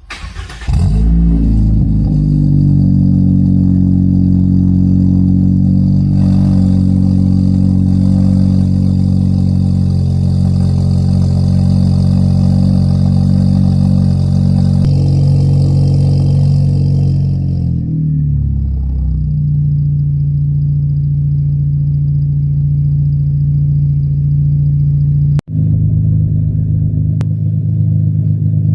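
GAC Emzoom R-Style's turbocharged four-cylinder engine, breathing through a full aftermarket exhaust system, starting from cold. It cranks briefly, catches, and holds a loud, steady fast idle. About eighteen seconds in, the revs drop and it settles into a lower, deeper idle.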